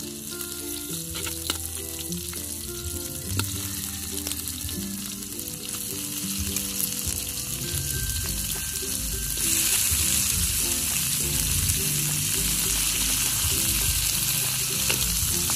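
Whole shrimp sizzling as they fry in hot oil with garlic and onion in a large metal pan, as they are laid in. The sizzling grows louder about nine and a half seconds in.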